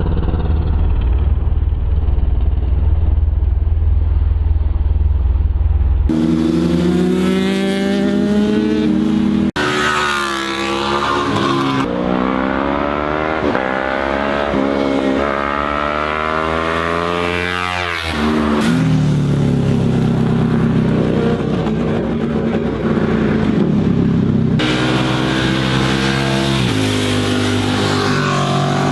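Sport motorcycle engines revving hard, the note climbing through each gear, dropping at the shifts and falling as bikes pass by, in several short cut clips. The first six seconds hold a deep, muffled engine rumble.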